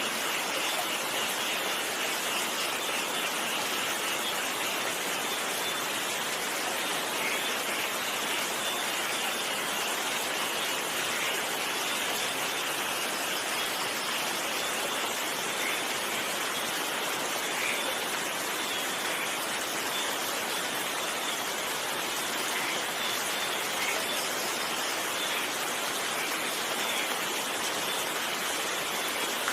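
Steady rain falling, an even hiss with a few scattered louder drops.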